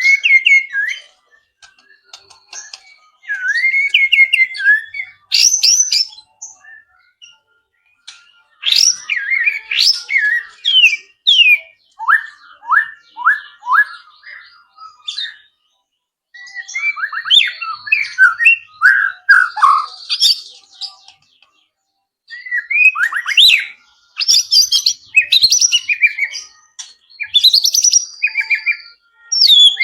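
White-rumped shama (murai batu) singing in bursts of varied whistles and rapid chirping runs, with short pauses between the phrases. The song is packed with mimicry of wild birds' calls.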